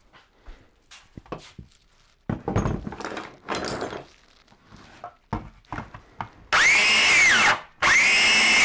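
Cordless biscuit joiner, a DeWalt DW682 joiner head on a DeWalt DC410 18-volt grinder motor, being test-run: a short burst of motor whine that spins up and winds down, then a second start near the end. Before it, knocks and clatter of handling the tool and a block of wood.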